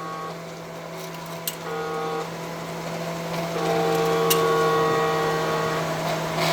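Small electric motor of a model railroad log loader accessory running with a steady hum and a whine that comes and goes, with two sharp clicks, one about a second and a half in and one just past four seconds.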